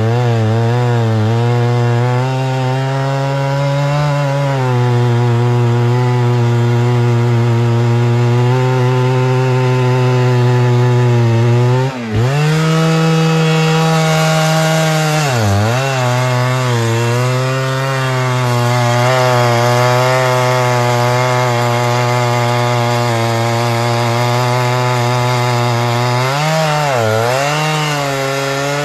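Two-stroke chainsaw running at high revs, cutting into a tree, loud and steady. Its pitch dips sharply and recovers three times: about twelve seconds in, at fifteen seconds, and near the end.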